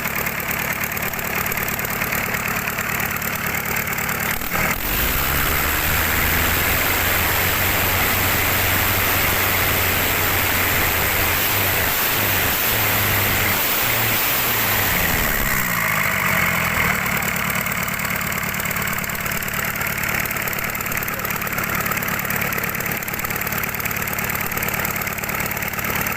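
Rebuilt KIA 25 boat engine running steadily. About five seconds in its sound grows louder and fuller, with a shifting pitch, then it settles back to its earlier steady running around sixteen seconds.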